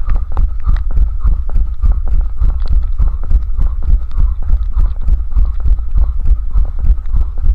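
Running footsteps at a steady pace of about three strides a second, heard as regular thumps through a head-mounted camera, over a continuous low rumble.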